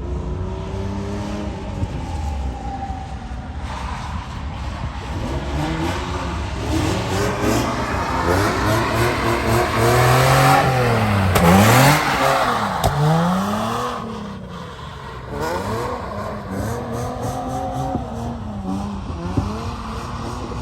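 Drift car engine revved hard and let off again and again, its pitch swinging up and down; loudest about halfway through, with a rushing noise under it.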